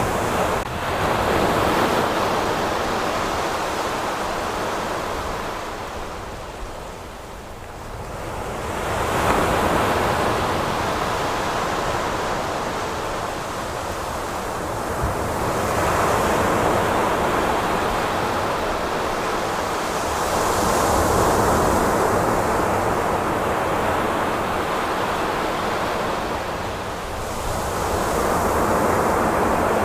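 Ocean waves breaking and washing on a beach, in slow surges every five to seven seconds, with wind buffeting the microphone.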